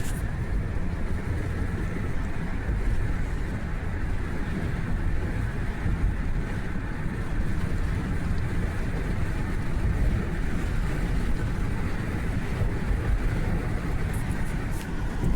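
Steady road and engine noise inside a moving car, a low, even rumble.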